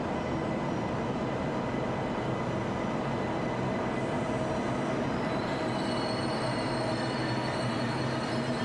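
DB ICE 1 high-speed train rolling slowly into a station platform: a steady rumble of the passing power car and coaches with high, thin squealing tones, which get higher about halfway through.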